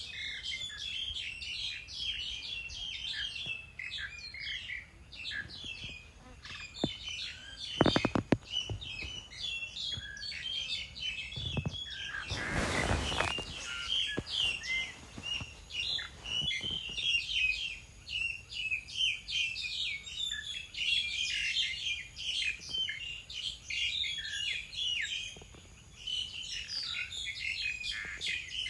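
Many small birds chirping and twittering together in a dense, continuous chorus of short high notes. A quick cluster of sharp clicks about eight seconds in, and a brief rushing noise around the middle.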